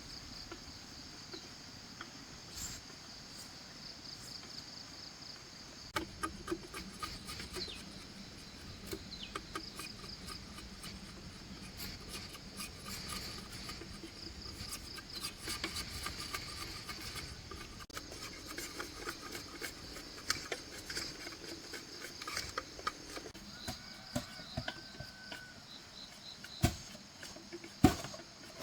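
Insects, crickets among them, chirring steadily in the background, with scattered light clicks and knocks throughout and two louder knocks near the end.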